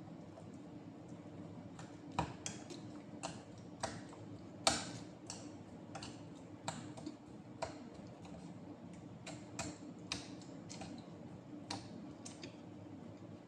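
Eating sounds: irregular clicks and smacks of someone chewing smoked fish and rice, about one or two a second, over a steady low hum.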